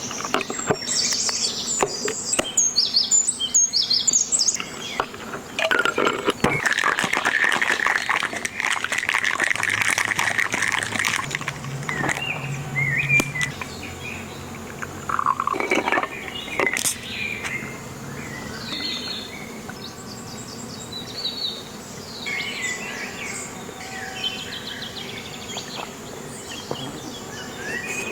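Outdoor ambience of birds chirping and insects, with scattered sharp knocks and clicks in the first half and a rushing, hissing stretch lasting several seconds about a third of the way in.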